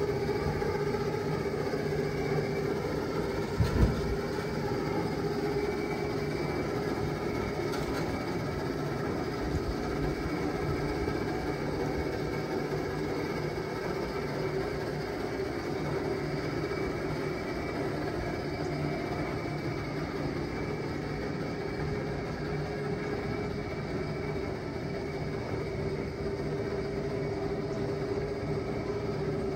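Kubota A-155 compact tractor's engine running steadily at a constant speed, with a single thump about four seconds in.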